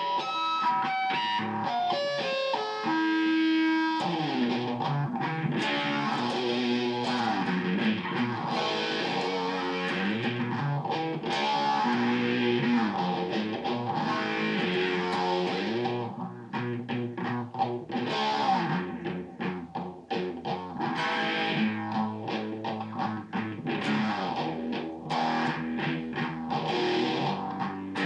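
Electric guitar played through a Madbean Laserwolf DIY pedal, its overdrive giving a distorted tone. It opens with a quick run of high single notes, then about four seconds in moves into riffing and chords, turning choppier and stop-start about halfway through.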